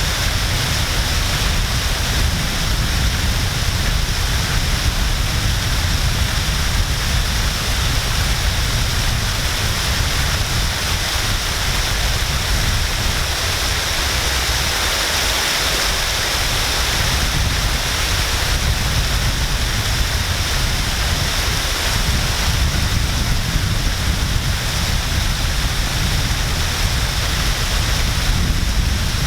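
Waterfall: water falling and splashing steadily, a constant rushing hiss over a deep rumble.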